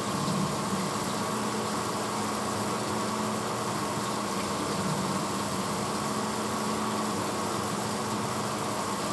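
1986 Hotpoint Potwasher dishwasher running mid-cycle: a steady motor hum over an even wash of noise, unchanging throughout.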